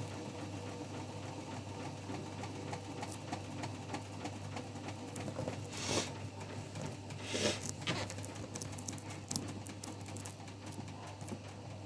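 Hotpoint washing machine in the last minutes of its final spin and drain, running with a steady low hum and a constant patter of small clicks and rattles. Two short rushing swishes come about 6 and 7.5 seconds in.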